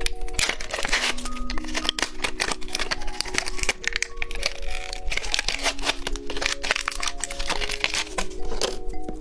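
Light background music, a simple melody of held notes, over the dense crinkling and tearing of plastic candy wrappers.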